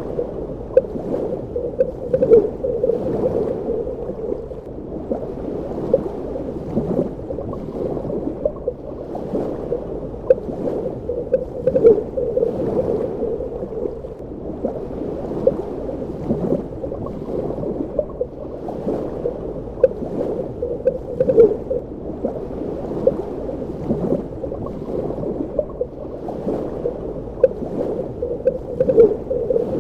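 Underwater ambience: a muffled, steady wash of water with frequent small bubbling and gurgling pops.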